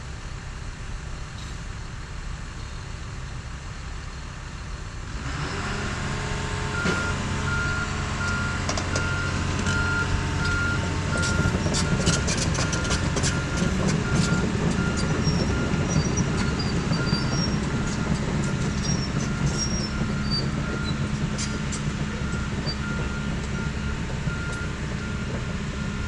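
Heavy equipment engine running, getting louder about five seconds in as the machine works harder, with a backup alarm beeping steadily from about seven seconds on. Scattered clanks and clicks come through in the middle.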